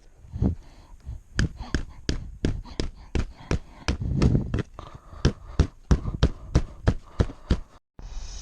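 A run of sharp knocks, about three a second, then a sudden cut near the end: tent stakes being hammered into hard desert ground.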